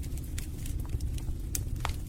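Wood fire burning in a fireplace: scattered sharp crackles and pops from the logs over a steady low rumble of the flames.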